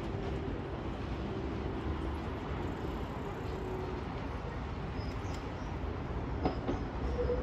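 Nankai electric train approaching on elevated tracks: a low, distant rumble that grows a little louder near the end, with a few sharp clicks.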